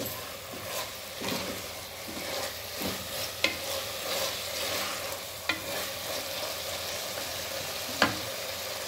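Onions, tomatoes, green chillies and mint leaves sizzling in hot oil in a pressure cooker while a slotted spatula stirs them. Three sharp taps of the spatula against the pot come about two seconds apart in the second half.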